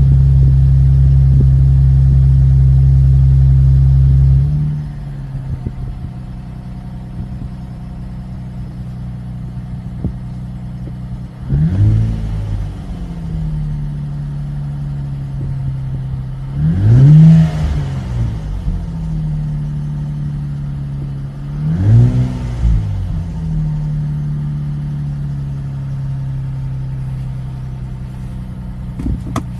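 Nissan Fairlady Z NISMO's twin-turbo V6 running through a NISMO titanium exhaust just after start-up. It holds a loud high idle that drops to a lower, quieter idle about four seconds in. It is then revved in three short blips, the middle one the loudest, and settles back to idle after each.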